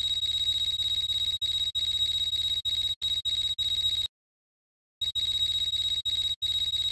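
A steady high-pitched electronic tone over a low hum, broken by short dropouts and cutting out completely for about a second midway before returning.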